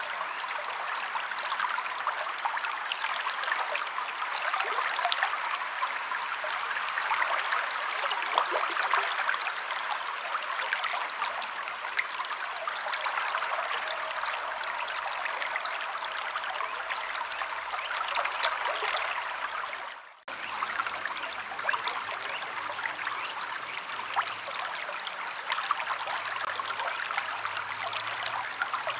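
Stream water flowing steadily over rocks, with a few faint short high bird chirps. The sound drops out for an instant about two-thirds of the way through.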